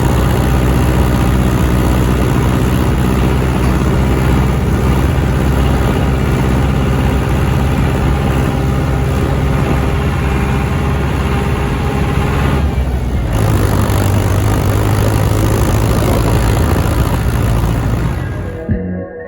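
John Deere tractor's diesel engine running steadily. Its note changes about thirteen seconds in, and the sound cuts off shortly before the end.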